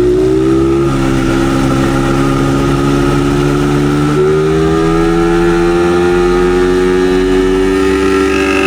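Dirt bike engine running hard under throttle. The pitch drops at a gear change about a second in, then climbs slowly, and jumps up about four seconds in before climbing steadily again.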